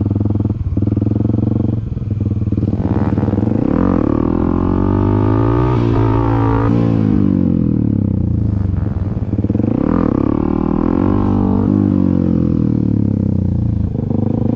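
Dirt bike engine running, its revs climbing and then dropping back twice as the rider pops wheelies.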